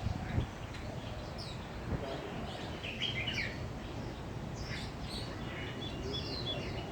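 Several birds chirping in short, high calls, more of them from about three seconds in, over a steady low background hum.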